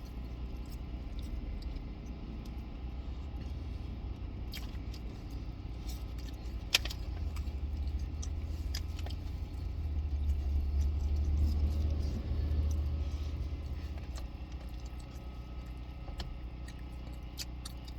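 Low rumble of a car, heard inside the cabin, swelling for several seconds mid-way, with scattered small clicks and rattles from handling takeout food containers.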